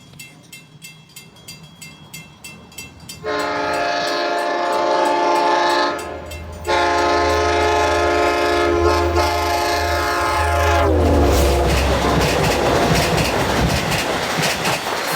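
Long Island Rail Road diesel train approaching and passing close at speed: its locomotive sounds a chord horn in two long blasts, the pitch dropping as it goes by, over the engine's low rumble, followed by the loud rushing clatter of the cars going past.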